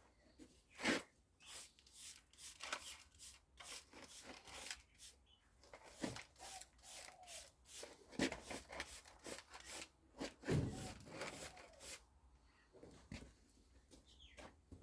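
Irregular scraping, rubbing and clicking from close-up hand work, with a few short squeaks.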